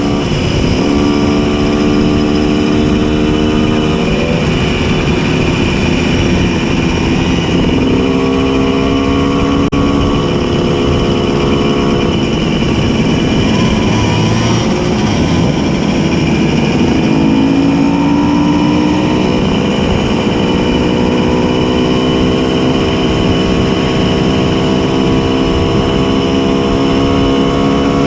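Tuned 90cc reed-valve two-stroke engine of a Simson S51 moped running under way, its pitch stepping and gliding up and down several times as it speeds up, shifts gears and backs off. Dense wind rush lies underneath.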